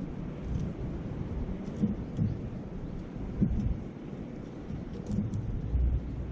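Wind buffeting the microphone in a low rumble over a wood campfire, whose small crackles come scattered throughout, with the steady murmur of a river underneath.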